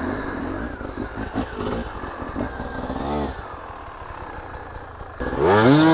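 Two-stroke dirt bike engine idling at low revs, a lumpy, uneven beat. Near the end a much louder sound cuts in, rising and then falling in pitch.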